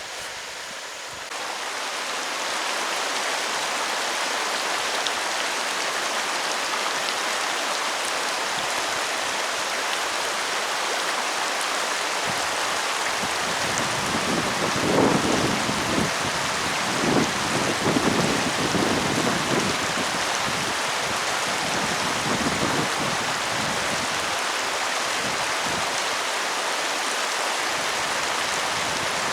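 Steady rain, an even hiss that comes up sharply about a second in. Around the middle, a stretch of low rumbles swells and fades under the rain.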